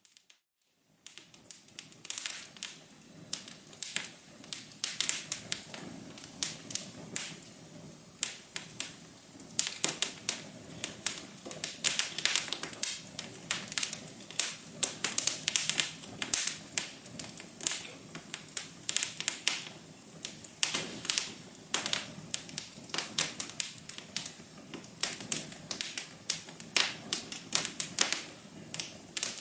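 Fireplace fire crackling, with dense, irregular sharp pops of varying loudness over a soft low hum. The sound drops out for about a second at the start, then resumes.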